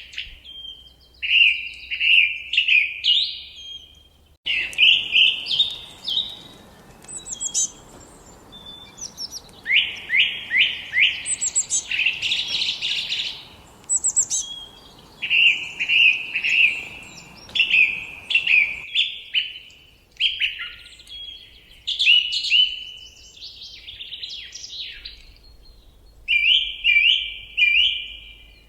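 Songbirds singing in a forest: phrase after phrase of quick, repeated whistled notes. A faint hiss comes in about four seconds in and cuts off abruptly a little past the middle.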